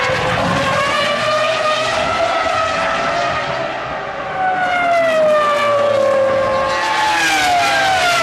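2005 Formula One cars' 3-litre V10 engines running at high revs. The pitch climbs, dips briefly about four seconds in, climbs again, then falls away near the end.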